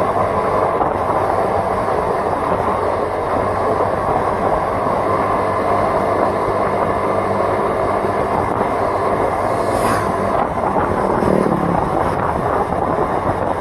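A vehicle's engine running steadily with road and wind noise while travelling. About ten seconds in there is a brief swish, followed by a falling pitch, as something passes by.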